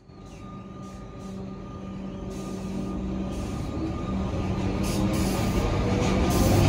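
Comeng electric suburban train approaching and running past on elevated track. Its rumble and wheel noise grow steadily louder throughout, over a steady motor hum, with clicks from the wheels on the rails joining in after about two seconds.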